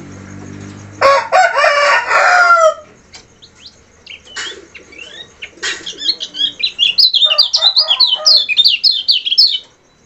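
Kecial kuning white-eye singing: a loud, lower-pitched chattering burst of falling notes about a second in, then scattered calls and a long run of rapid, high-pitched twittering notes that stops shortly before the end.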